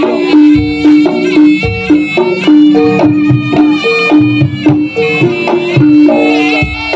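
Jaranan gamelan music played live: a repeating figure of tuned gong notes over hand-drum strokes, with a high, reedy wavering melody on top.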